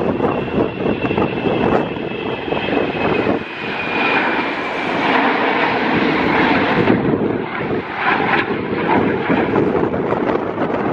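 Airliner engines running, with a thin high whine that falls slightly in pitch over the first few seconds, heard through strong wind buffeting the microphone.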